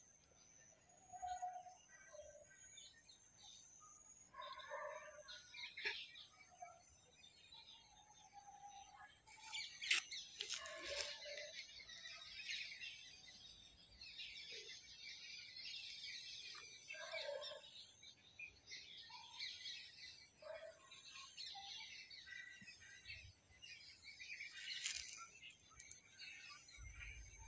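Small birds chirping on and off, faint, over a steady high hiss. There are a couple of brief rustling bursts, about ten seconds in and near the end.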